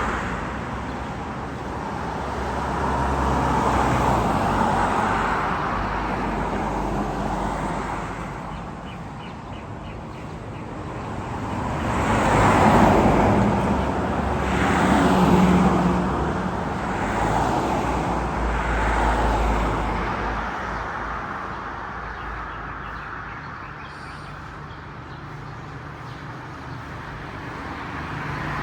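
Road traffic: a string of vehicles passing one after another, each swelling up and fading away, the loudest about twelve to sixteen seconds in.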